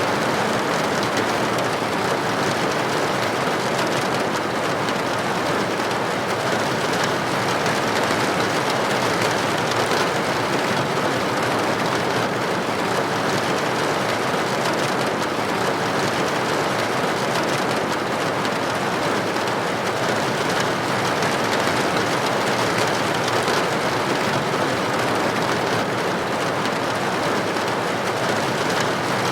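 Steady rain with droplets hitting a building window: an even, unbroken hiss with no distinct drops or thunder standing out.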